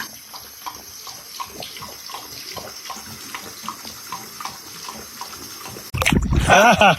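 Water running or splashing, with faint regular clicks about three times a second. About a second before the end a loud voice cuts in suddenly.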